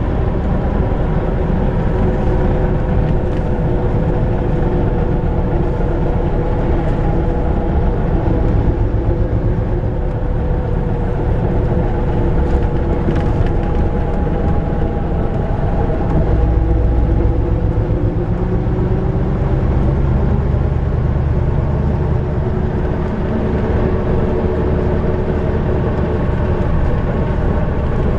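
YaMZ diesel engine of an Ikarus-250.95 bus running under way, heard on board, with a steady drone and road rumble. The engine note drifts slowly up and down with speed, and the low rumble gets heavier about halfway through.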